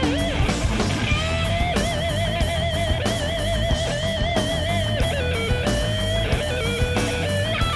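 Rock band playing live: a lead electric guitar line holding long notes with wide vibrato, over bass and drums.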